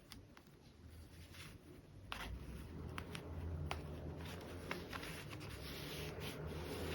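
Hands handling fabric: soft rubbing and rustling with scattered small clicks. A low steady hum starts about two seconds in.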